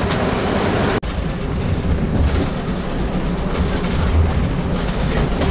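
Train running along the line: rolling noise with wind heard through a carriage window, then after an abrupt cut about a second in, the deep rumble of a diesel railcar heard from its driving cab.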